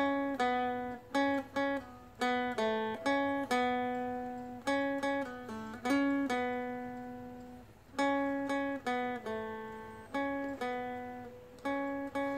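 Seagull Merlin, a small four-string fretted dulcimer-style instrument, playing a slow melodic line of single plucked notes on its low and middle strings. Each note rings and fades before the next, with a brief pause a little past the middle.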